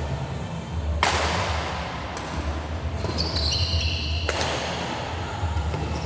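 Game sounds in an indoor sports hall over a steady low rumble: a sudden burst of noise about a second in and again about four seconds in, each fading off, with high squeaks between them.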